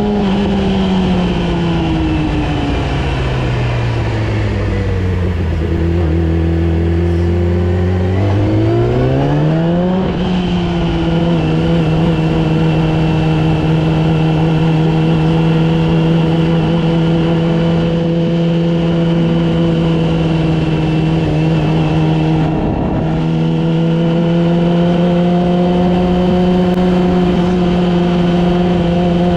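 Yamaha R6 inline-four sport bike engine heard while riding: its note falls smoothly for the first several seconds as the bike slows, rises again about eight to ten seconds in, then holds a steady cruising pitch. A brief break in the note comes near 23 seconds, after which it climbs slightly.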